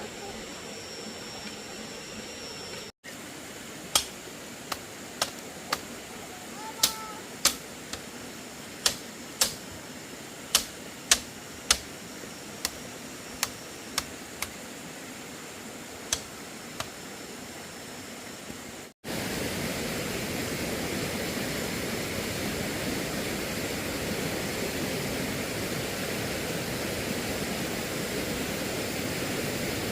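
Sharp, irregular knocks, about one a second, of a tool striking bamboo. After a cut, a steady rushing noise takes over.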